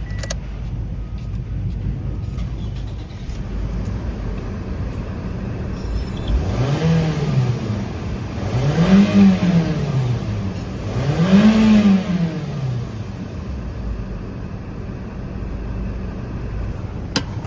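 Toyota 1AZ-FSE 2.0-litre direct-injection inline-four running at idle, revved three times about halfway through, each blip rising and falling back to idle. A sharp click near the end.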